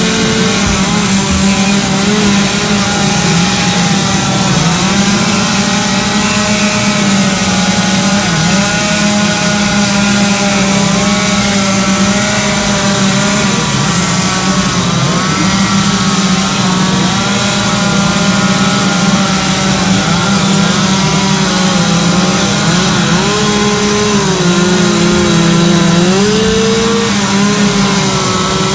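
Loud two-stroke chainsaw running at high revs while carving wood, its engine pitch dipping and recovering again and again as the chain bites in and frees up.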